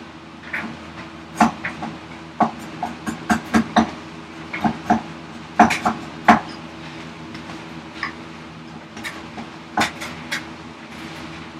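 Hand-tool blade paring tough ash end grain: irregular sharp clicks and knocks, some in quick clusters, as the blade chatters. A steady low hum runs underneath.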